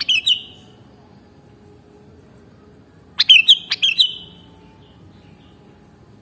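Sooty-headed bulbul (kutilang) singing: two short phrases of quick, bright whistled notes that drop in pitch, one at the very start and a louder one about three seconds in.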